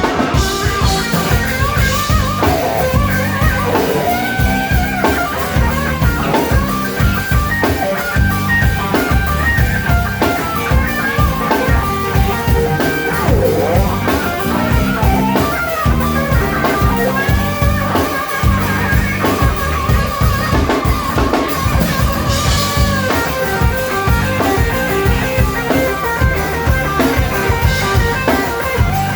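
Live blues-rock band playing an instrumental passage: a lead guitar plays melodic lines over bass and a drum kit.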